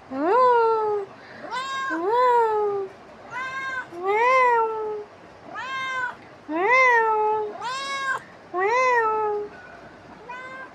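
Domestic cat meowing insistently: about ten meows, one every second or so, each rising then falling in pitch.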